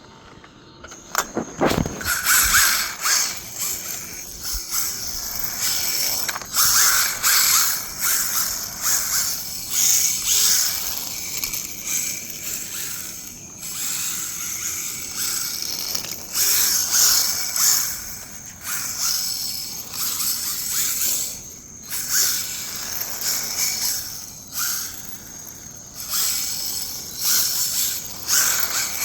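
Electric RC rally car's motor whining and its tyres skidding on smooth concrete as it drifts, surging in repeated bursts with short gaps as the throttle is worked. It starts about two seconds in.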